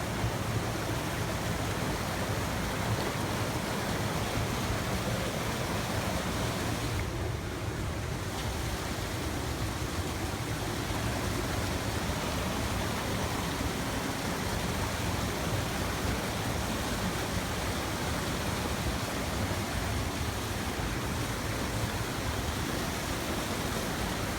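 Steady rushing of flowing water, like a stream or small waterfall, an even unbroken noise throughout.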